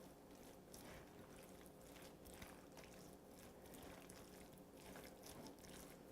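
Faint, soft repeated squishing strokes of a spoon stirring a wet chicken filling in a bowl, barely above near silence.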